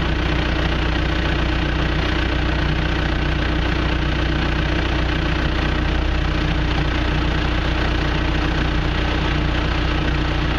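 John Deere 650J crawler dozer's diesel engine idling steadily.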